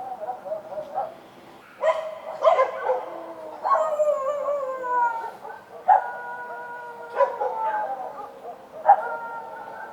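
Street dogs barking and howling: sharp barks that draw out into long howls falling in pitch, several in a row after a short lull about a second in.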